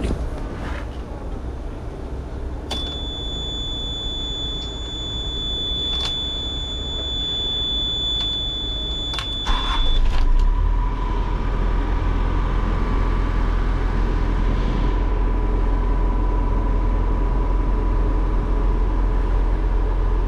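Ashok Leyland bus running steadily, with a high, steady beep held for about seven seconds. About ten seconds in the low rumble grows louder and a steady hum joins it.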